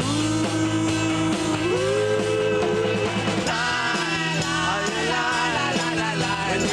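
Rock band playing live, with a lead line of long held notes that slide up in pitch. The sound grows fuller and busier about three and a half seconds in.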